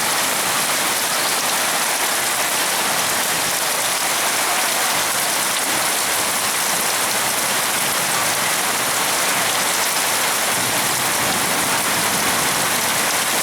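Heavy rain pouring down steadily, a dense even hiss of rain falling on surfaces.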